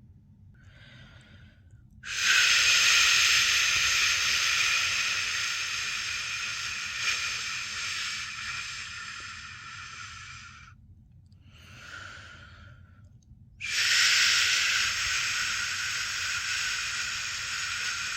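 A person shushing, a long 'shhh' made with the mouth to soothe a newborn to sleep. There is a short faint shush, then a loud one of about eight seconds that gradually fades. Another short faint shush follows, and a second loud, long shush begins about three-quarters of the way in.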